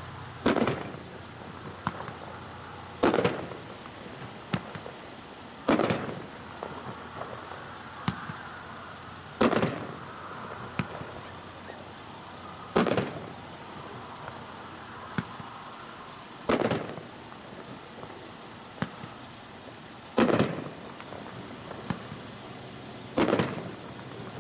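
A 350-gram consumer fireworks cake (Rhapsody) firing, its aerial shells bursting one after another: eight loud booms, one every three to four seconds, with fainter pops and crackle between them.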